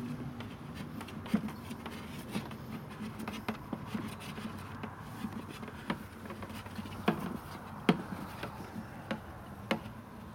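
Irregular clicks, taps and rubbing of 8mm plastic pipe being handled and threaded through a drilled hole in a plastic water container, over a faint steady low hum.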